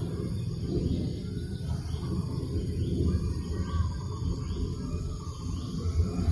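Breeze buffeting the microphone as a steady low rumble, with a bird repeating a short chirp about every two-thirds of a second from about two seconds in.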